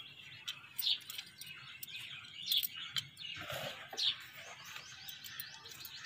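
A bird calling: a short high chirp, dropping slightly in pitch, repeated three times about every second and a half, with faint scattered clicks between.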